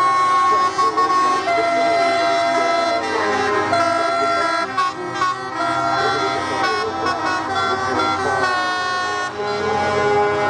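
Truck air horns, several sounding at once in long overlapping tones whose pitches shift every second or so.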